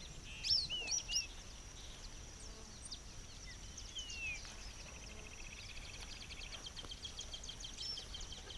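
Wild birds chirping, with a cluster of short sweeping calls about half a second in and another call near four seconds. Under them runs a steady high-pitched buzz, and a fast trill comes in during the second half.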